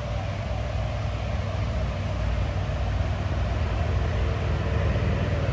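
Steady low rumble of car engines running, with no distinct revving.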